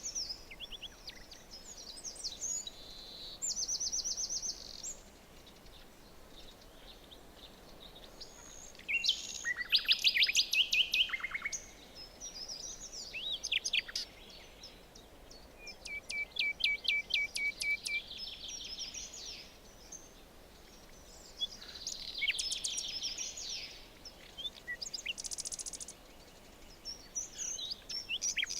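Songbirds singing in a forest: several different birds with trills and fast runs of high chirping notes, in bursts of a few seconds, over a faint steady background hiss.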